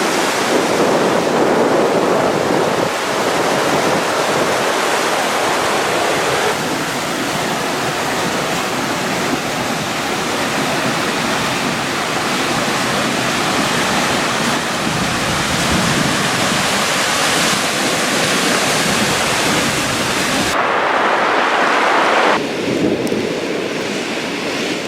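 Loud, steady rush of a waterfall's falling water. Its tone shifts abruptly a few times, once losing much of its hiss for a couple of seconds before returning to a duller rush.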